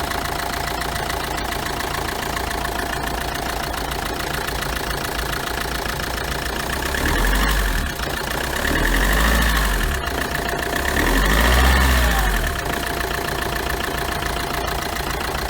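Car engine idling steadily and being revved up and back down three times, running without a knock now that the ribbed accessory-drive pulley and the idler pulley have been replaced.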